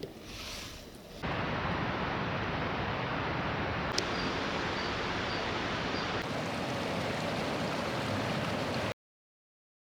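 Strong mountain wind rushing over the microphone in a steady roar; it starts suddenly about a second in and cuts off abruptly near the end.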